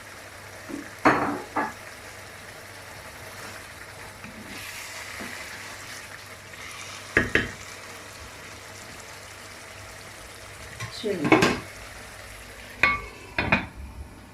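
A spoon stirring a pot of chicken tikka masala gravy over a steady simmer, with six or so short, sharp scrapes and knocks of the spoon against the pan.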